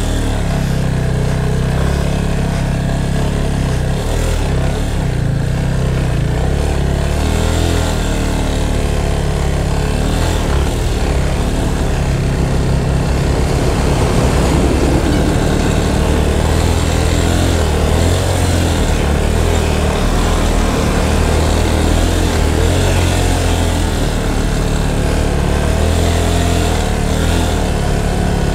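Yamaha FZ 25 motorcycle's single-cylinder engine running steadily at low revs under load, as the bike pushes a car along at low speed with the rider's foot on its bumper.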